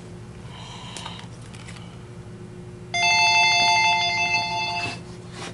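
Electronic alert tone, a buzzy pulsing ring held for about two seconds starting about three seconds in.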